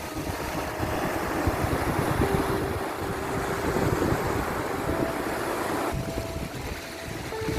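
Ocean surf washing steadily, swelling and easing in loudness, with a few long, soft melody notes held faintly over it.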